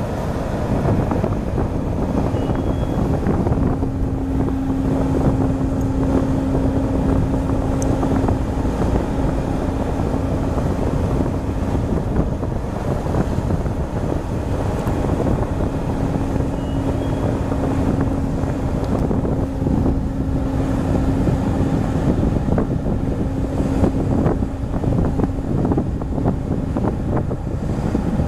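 Wind buffeting the microphone over the steady rumble of a ship at sea. A steady hum comes in twice, each time for several seconds.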